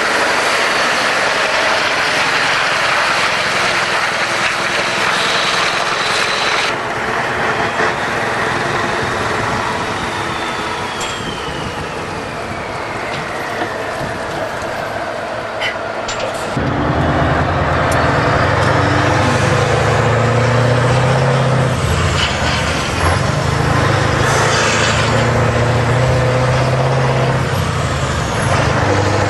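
Scania V8 diesel truck engine running. About halfway through, its deep engine note becomes loud and steady, after a slowly falling whistle and a short sharp hiss.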